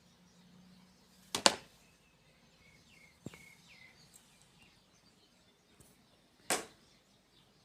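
Two short, loud whoosh-like bursts about five seconds apart, with faint bird chirps between them.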